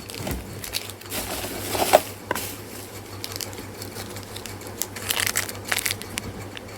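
Packaging crinkling and tearing as new ceiling-fan ball bearings are unwrapped by hand. It comes in two rustling spells, one starting about a second in and one near the end, with a few small clicks.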